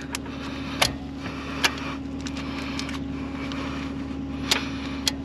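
Vehicle engine idling steadily, with a few sharp clicks, about one, one and a half and four and a half seconds in.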